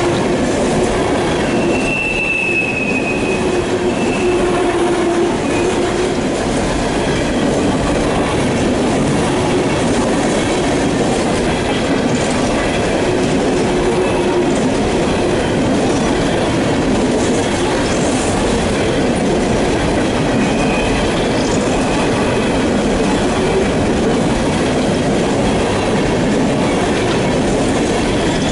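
Empty CSX coal hopper cars rolling past on a curve: a steady rumble and clatter of wheels on rail, with wheels squealing on and off, including short high squeals about two seconds in and at the very end.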